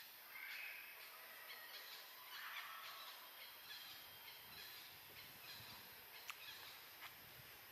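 Faint bird chirps and short high calls over a steady low hiss, mostly in the first few seconds, with two small clicks near the end.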